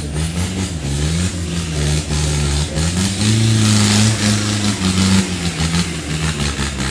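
Mitsubishi Strada off-road pickup's engine pulling under load, revving up about three seconds in and easing off after five, with scattered knocks and clatter from the vehicle.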